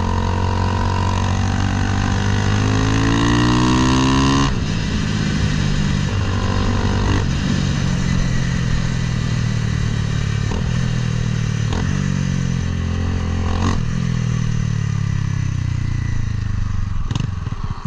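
Honda Grom with a swapped-in CBR300R single-cylinder engine being ridden: the engine note rises in pitch under acceleration, drops sharply at a gear change about four and a half seconds in, then holds at a steady cruise with a few smaller shifts and falls off toward the end.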